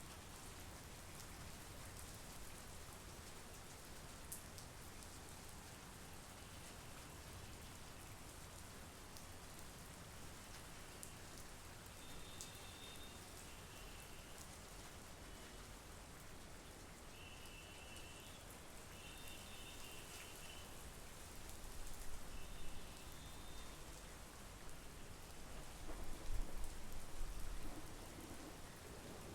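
Steady monsoon rain falling. Faint, short, high chirping calls come now and then. Two low rumbles swell up in the second half, the louder one near the end.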